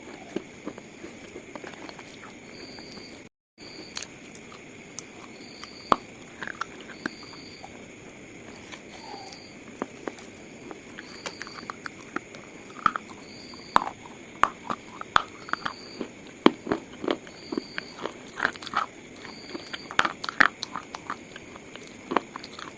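Brittle slate pieces crunching and snapping, a scattered run of sharp cracks that comes thicker and louder in the second half.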